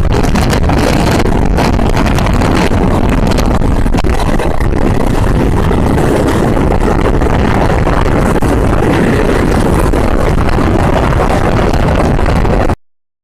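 Passenger train running on the track, a loud steady rumble and rush of noise. It cuts out abruptly for a moment near the end.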